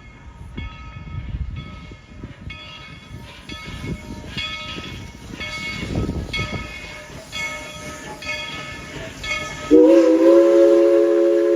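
Steam locomotive #190 of the Tweetsie Railroad running with its bell ringing steadily, one ring about every two-thirds of a second, over the rumble and clatter of the train. Near the end its steam whistle sounds a loud, steady chord and holds it.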